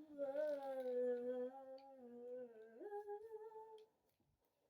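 A girl humming a slow tune in long held notes, stepping up in pitch a little before three seconds in, then stopping about a second before the end.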